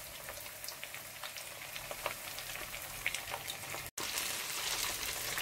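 Breaded chicken strips frying in hot sunflower oil in a frying pan: a steady sizzle with many small crackles. It breaks off for an instant just before four seconds in and comes back louder, with more strips in the oil.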